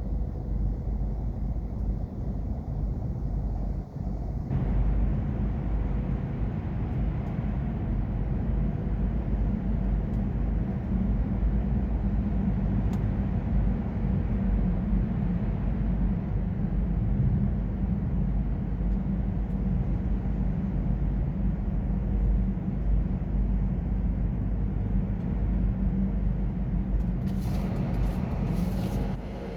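Heavy truck driving: steady engine and rolling-road rumble, getting fuller about four and a half seconds in, with a few short hissing bursts near the end.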